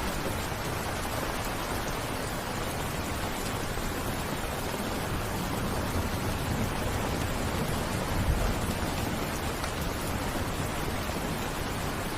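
Steady rain falling, an even continuous hiss, with one brief low thump about eight seconds in.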